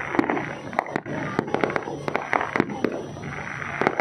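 Fireworks going off, with a run of irregular bangs and crackling pops.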